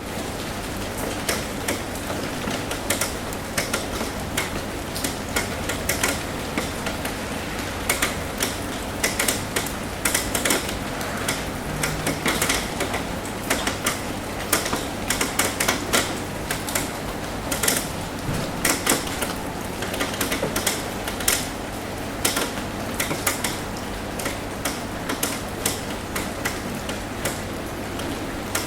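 Rain tapping on a roof: many irregular, sharp drop taps over a steady hiss of rain.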